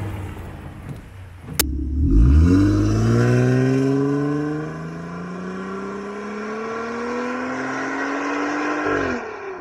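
Jeep Wrangler engine accelerating away, its pitch climbing steeply, dropping back at an upshift, then climbing slowly again before falling off near the end. It starts right after a sharp click.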